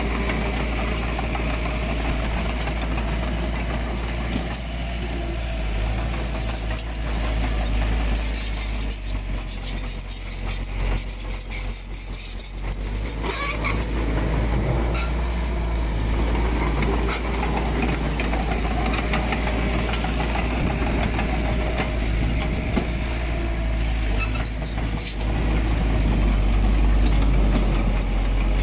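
Diesel engine of earthmoving machinery running steadily with a deep rumble. About a third of the way in and again later come scattered light metallic clicks and squeaks, and the engine grows a little louder near the end.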